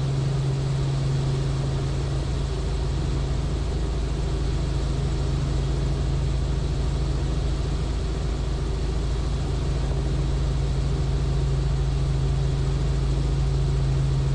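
Robinson R44 helicopter in level cruise, its engine and rotors making a steady, unchanging drone with a strong low hum.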